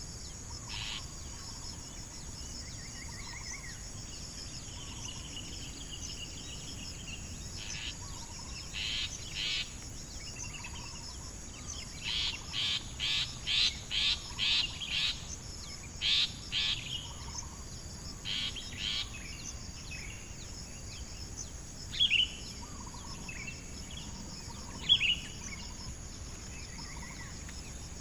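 Short bird calls over a steady high insect drone: a run of about a dozen brief notes in quick succession around the middle, then a few sharp single chirps near the end.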